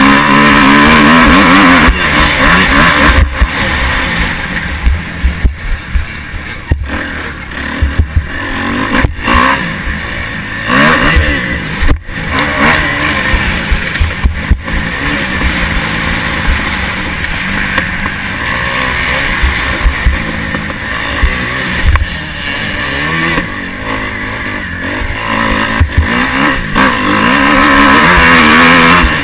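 Motocross bike engine heard from an onboard camera, revving hard and rising and falling in pitch through the gears. It is loudest at the start and again near the end, with frequent sharp knocks from the rough track in between.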